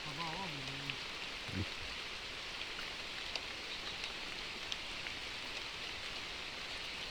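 Steady rain falling: an even hiss with a few scattered drops ticking.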